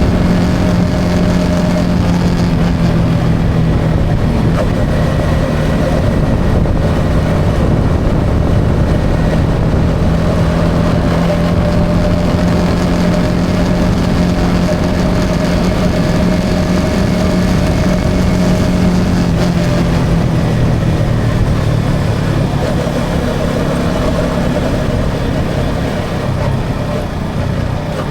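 Yamaha XSR 155's single-cylinder engine running at a steady cruise, with road and wind noise. The engine pitch drops at about two-thirds of the way through as the bike eases off, then begins to climb again near the end.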